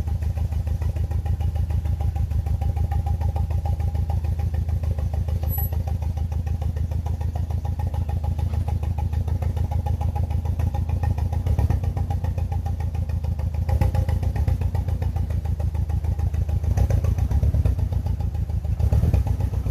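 BMW E46 318i's N42 four-cylinder petrol engine idling on a dead ignition coil: a steady, pulsing misfire idle, with a few brief rises in loudness.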